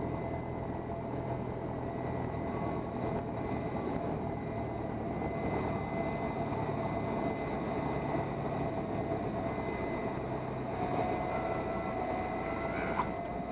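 Steady engine and airflow drone inside the cabin of a 1977 Cessna 172N, whose four-cylinder Lycoming engine is running through the landing flare and touchdown of a touch-and-go.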